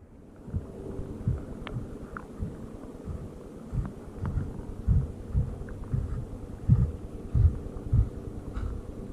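Walking footsteps on sand: dull low thumps, a little under two a second, over a faint steady hum.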